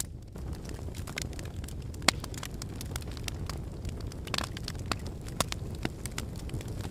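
Wood fire burning in a fireplace: a steady low rumble of flames with irregular sharp crackles and pops from the logs, one louder pop about two seconds in and a short cluster of pops after four seconds.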